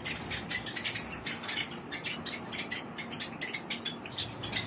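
A colony of Java sparrows chirping: many short, high calls overlapping continuously.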